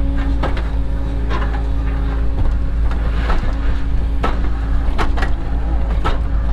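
Cat 307 mini excavator's diesel engine running steadily with a constant hydraulic whine, with a series of sharp knocks and clanks about once a second.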